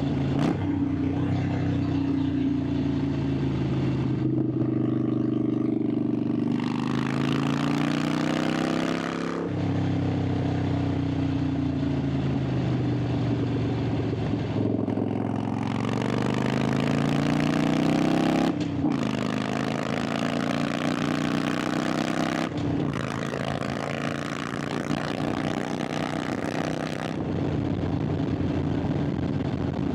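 Harley-Davidson Sportster 883's V-twin engine pulling a motorcycle along, its pitch climbing under throttle and then dropping sharply about a third of the way through. It climbs again, with quick breaks a little past halfway and about three-quarters in, as at gear changes, then runs steadier.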